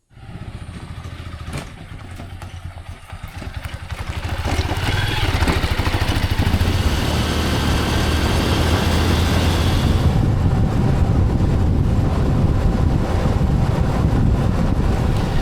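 Motorcycle engine running while riding, growing louder about four seconds in and then holding steady.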